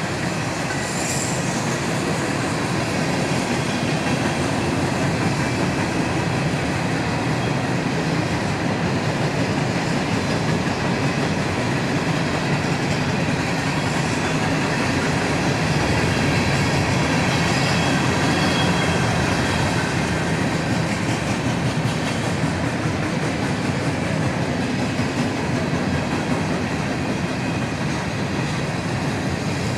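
A train passing close by, its cars rolling steadily along the rails.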